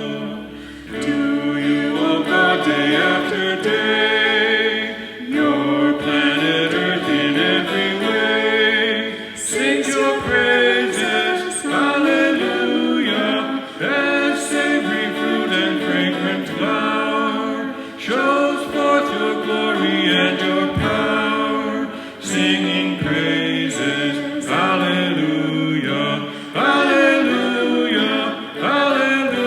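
Several voices singing together in harmony without instrumental accompaniment, in phrases with brief breaths between them.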